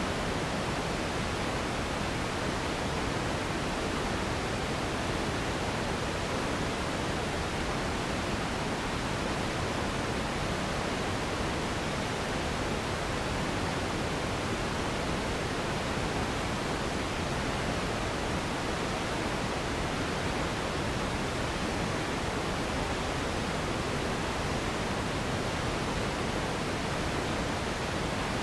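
Steady pink noise, an even hiss weighted toward the low end, unchanging throughout.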